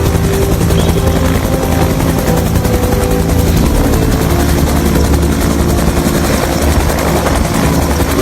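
A loud, steady noise that starts and stops abruptly, laid over quiet background music.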